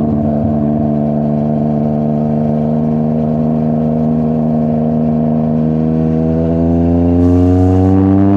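Yamaha MT-09's three-cylinder CP3 engine through a full Akrapovic exhaust system, pulling at a steady speed and then accelerating, its pitch rising steadily over the last few seconds and growing louder.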